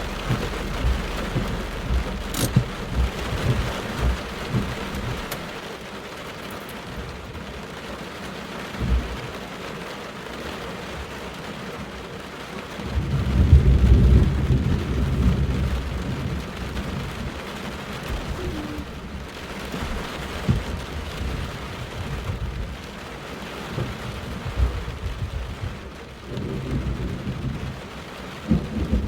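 Thunderstorm: steady heavy rain with rolls of thunder. The loudest is a long low rumble of a few seconds about halfway through, and more rumbling comes near the end.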